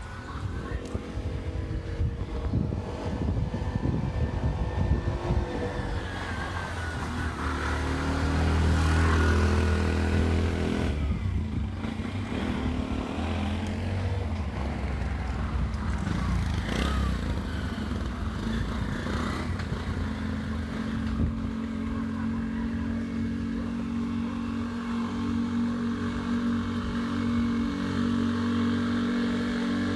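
A motor vehicle engine running close by, its pitch rising and falling as it revs, settling into a steadier drone in the second half.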